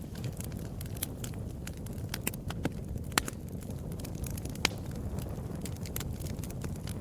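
Fireplace fire burning with a steady low rumble and frequent sharp crackles and pops, two louder pops about three and four and a half seconds in.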